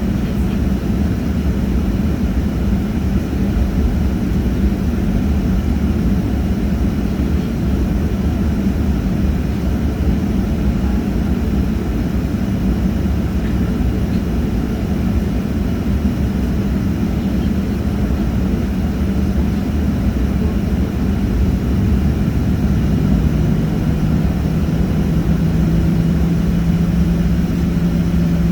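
Airliner engine noise: a loud, steady low drone with a constant hum. About three quarters of the way through, a second steady tone joins it and holds.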